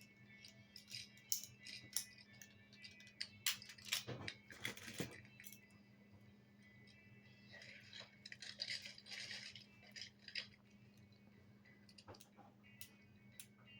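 Toy construction vehicles being handled: scattered clicks and knocks, with a longer rattle about eight seconds in, over a faint steady hum.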